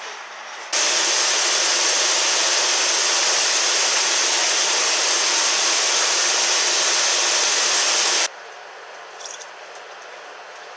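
Disinfectant being sprayed under pressure: a loud, steady hiss that starts suddenly about a second in and cuts off suddenly after about seven seconds.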